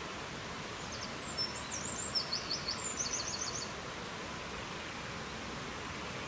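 A small songbird sings one short, high phrase of quick notes ending in a rapid trill, starting about a second in, over a steady rushing noise.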